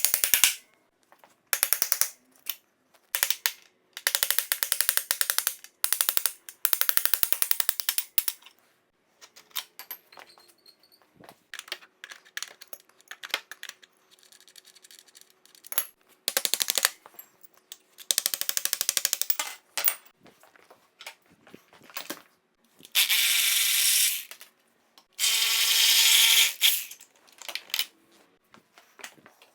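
A power tool running in about a dozen short bursts of very rapid clicking, as fasteners are loosened on a dirt bike engine.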